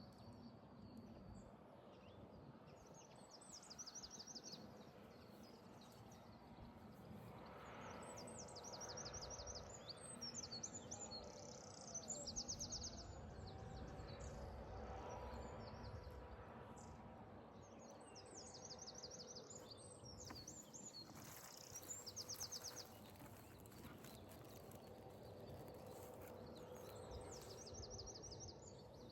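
Small birds singing: short, fast, high-pitched trills repeated again and again, over a faint low background hum.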